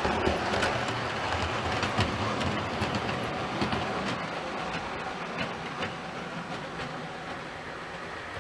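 Model train running on the layout's track: a steady rolling rumble with scattered wheel clicks, slowly growing quieter.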